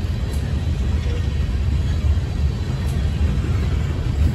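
Freight train boxcars rolling past on the rails: a steady low rumble of steel wheels on track.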